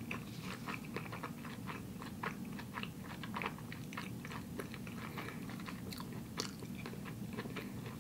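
A person chewing a mouthful of natto sushi roll: a steady run of small, irregular mouth clicks, several a second.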